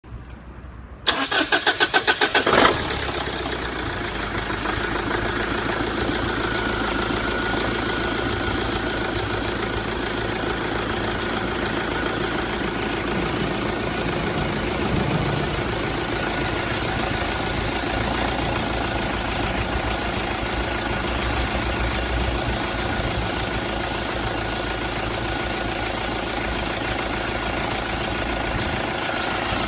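TX4 London taxi's 2.5-litre CRD 16-valve four-cylinder common-rail diesel engine being cranked by the starter for about a second and a half, catching and settling into a steady idle.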